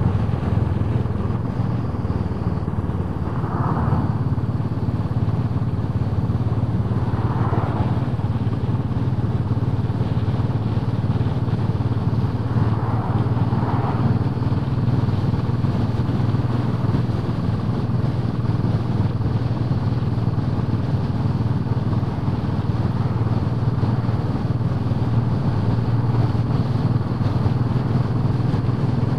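Royal Enfield Bullet 500's single-cylinder four-stroke engine running at a steady road speed, with no rise or fall in engine pitch, under an even rush of road noise.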